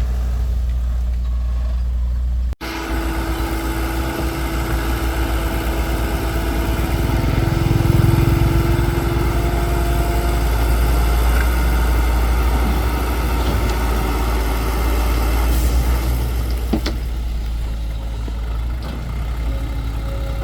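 Excavator engine running steadily, with a faint held whine above it for several seconds and the sound swelling a little around eight seconds in. The sound cuts out for an instant near three seconds in.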